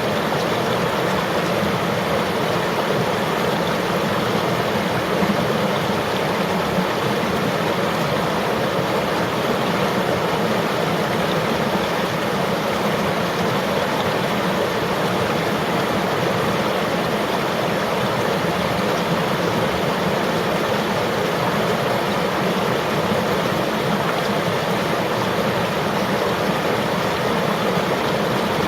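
River water flowing steadily, an even rushing that stays the same throughout.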